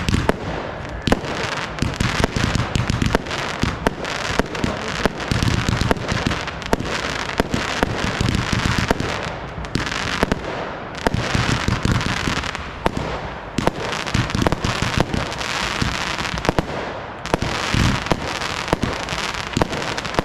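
Fireworks display: rapid sharp bangs, several a second, over a continuous crackle, with deep booms from bursting shells at times.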